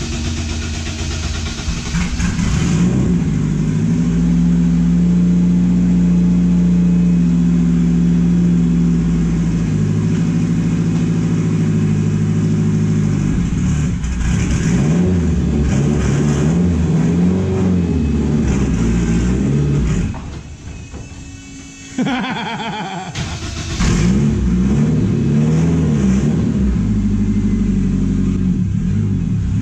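Turbocharged Honda F20C four-cylinder engine in a drift truck running and being revved, first held at steady revs, then blipped up and down over and over. The sound dips sharply for about two seconds about two-thirds through before the revving picks up again.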